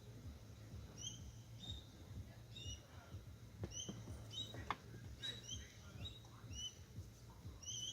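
A small bird chirping repeatedly: short, clear, curved chirps, about one or two a second, over a low steady hum.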